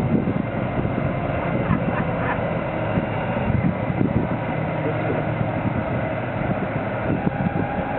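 Lift truck engine running steadily with a low hum, working the hydraulics of a tire handler attachment on a large mining tire.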